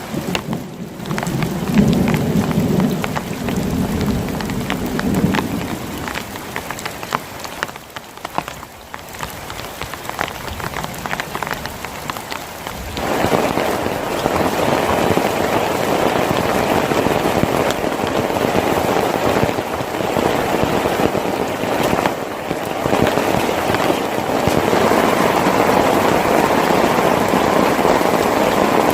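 Heavy rain pouring steadily, with a low rumble of thunder in the first few seconds. About thirteen seconds in, the rain abruptly turns louder and denser.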